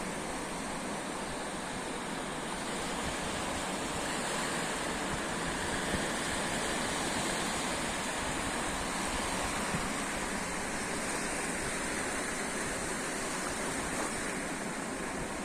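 Steady rushing noise of rain and sea surf, even in level, with a couple of faint ticks about six and ten seconds in.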